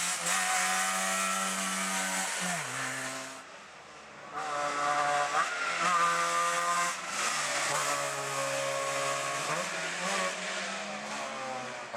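Trabant rally cars' two-stroke two-cylinder engines revving hard at full throttle. The note falls sharply several times between hard runs, with a brief lull about four seconds in.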